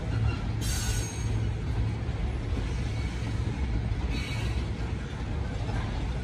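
Loaded freight train of covered hopper cars rolling past with a steady low rumble, with brief high-pitched wheel squeals about half a second in and again about four seconds in.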